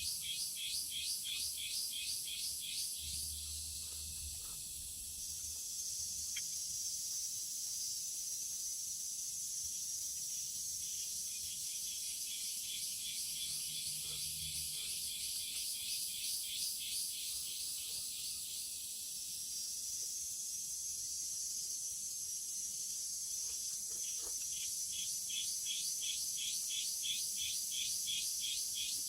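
Forest insect chorus: a high, rapidly pulsing trill at the start that gives way to a steadier high hiss, with the pulsing trill coming back near the end.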